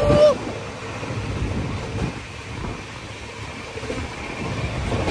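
Shatabdi Express running at about 145 km/h: a steady rush of air and the low rumble of wheels on the track, with wind buffeting the microphone. A loud held tone cuts off just after the start.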